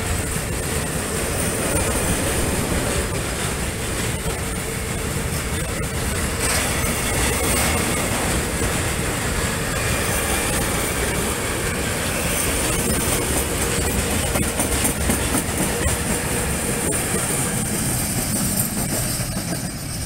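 Long freight train of tarpaulin-hooded wagons rolling past: a steady rumble with wheels clicking over rail joints and a steady high-pitched wheel whine.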